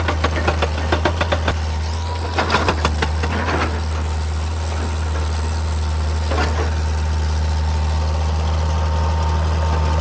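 Excavator's diesel engine running steadily. Runs of rapid knocking come in the first second and a half, and short bursts of clatter come about two and a half and six seconds in.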